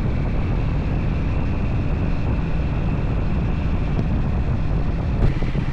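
Vehicle engine running steadily while driving, with wind buffeting the microphone and a single brief knock about five seconds in.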